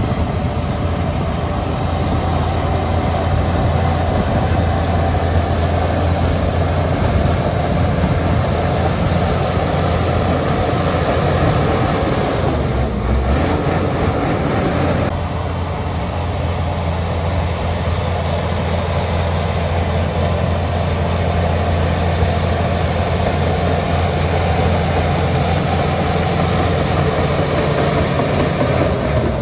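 Heavy earthmoving machinery's diesel engine running steadily under work, a deep hum under a broad mechanical noise; the note shifts about halfway through.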